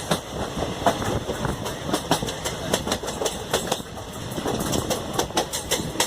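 Koyna Express passenger train running, its wheels clattering over the rail joints in a fast, irregular series of clicks and knocks over a steady rumble.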